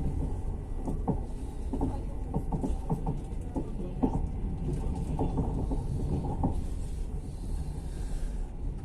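Passenger train running, heard from inside the carriage: a steady low rumble with irregular knocks and rattles that die away about six and a half seconds in.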